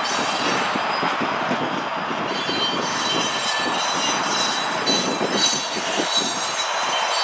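Freight cars of a Canadian Pacific train rolling past at speed: steel wheels squeal against the rail in thin, steady high tones over a continuous rumble, with an irregular clatter of wheels over the track.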